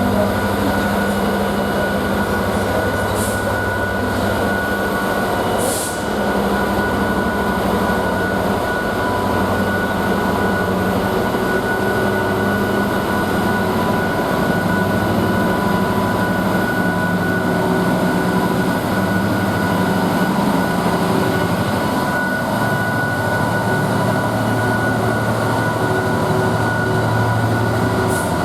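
Diesel locomotive engine running steadily, with a steady high tone above it and a couple of brief high clicks in the first few seconds.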